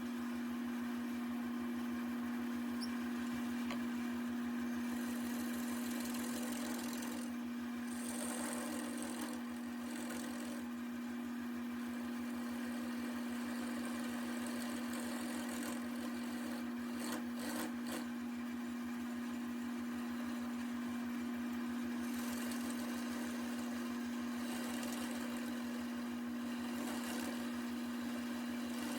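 Wood lathe running with a steady motor hum while a turning tool cuts a spinning walnut table leg. The hiss of the cut comes and goes.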